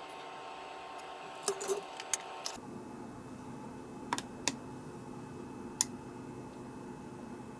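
Light clicks and taps of small hard objects being handled during bench work: a quick cluster about a second and a half in, then a few single clicks spread apart. A steady background hum changes abruptly about a third of the way in.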